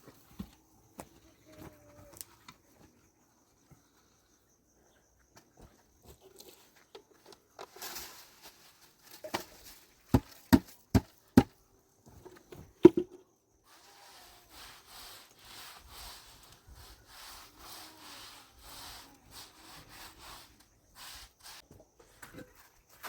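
A few sharp knocks, then a steady back-and-forth scraping or rubbing on a hard surface, about two strokes a second.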